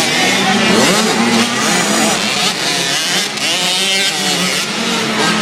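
Several motocross bikes' engines revving up and down together, their pitches rising and falling over one another as the riders work the throttles.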